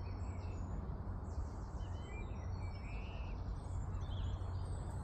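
Several small birds chirping and giving short buzzy trills over a steady low background rumble.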